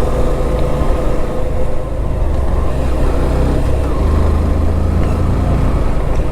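Motorcycle engine running under way on a hill road, a steady low drone that changes pitch about four seconds in.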